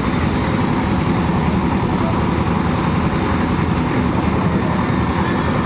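Steady, continuous running of a construction machine's engine, a dense low drone that holds level throughout, from the equipment working the concrete pour for the column.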